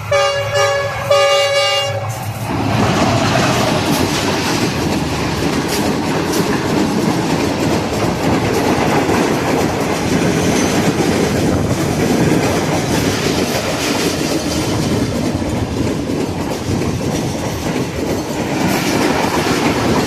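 A train's locomotive horn sounds for about the first two seconds. Then the train runs past close by, a loud, steady rush and rattle of wheels and carriages on the track.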